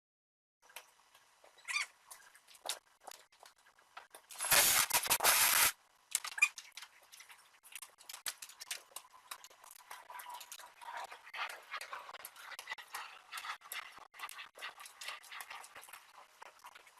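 Light, scattered pattering and scuffing of a small pet moving about, with a loud burst of noise lasting about a second near the five-second mark.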